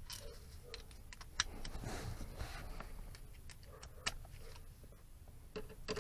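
Scattered light clicks and metallic clinks of hand tools being handled: a socket, extension and ratchet at the battery terminals.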